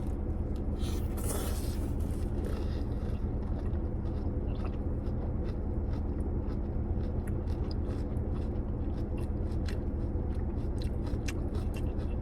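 A person eating takeout food: chewing, with scattered small clicks and scrapes, over a steady low hum.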